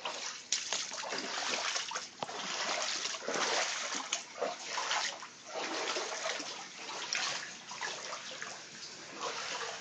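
Floodwater about six inches deep splashing and sloshing in irregular swells, as someone wades through it.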